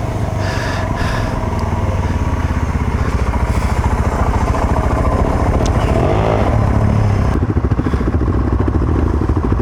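Motorcycle engine running steadily while being ridden off-road.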